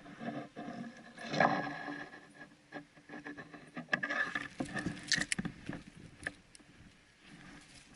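Irregular rustling and scraping with scattered sharp clicks, as of a person pushing through dry brush and vegetation; loudest about a second and a half in and again around four to five seconds in.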